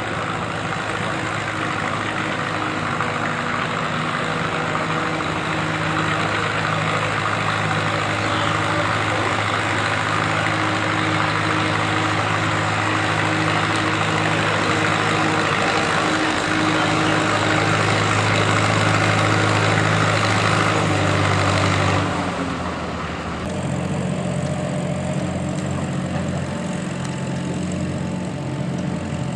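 Vintage tractor engine running steadily. Its sound changes and drops in level about three-quarters of the way through.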